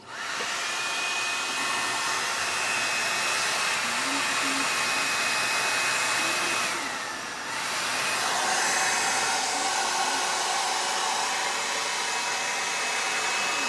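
Hot-air brush hairdryer switching on at the start and running with a steady blowing noise and a high motor whine. About halfway through the whine slides down and the sound dips briefly, then it runs steadily again.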